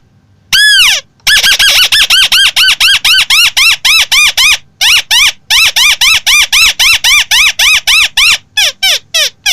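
A crake calling loudly: one arched note, then a rapid run of short arched notes at about six a second. The run breaks briefly a little before halfway, then resumes and slows to spaced notes near the end.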